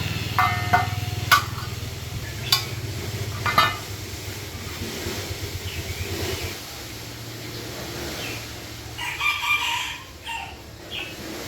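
Small engine running with a steady low hum that dies away about six seconds in, with a few sharp knocks in the first few seconds. A rooster crows about nine seconds in.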